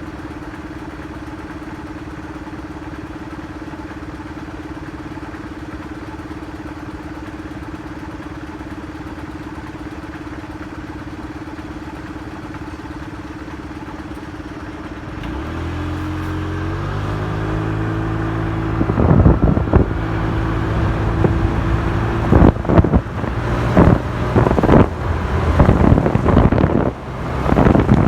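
Motorcycle engine idling steadily, then pulling away about halfway through and climbing in pitch in steps as it accelerates through the gears. Wind buffets the microphone more and more as speed builds.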